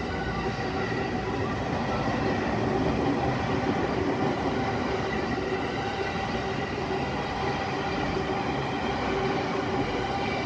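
A Yokosuka Line train passing over a level crossing: a continuous rolling rumble with steady high-pitched tones running through it.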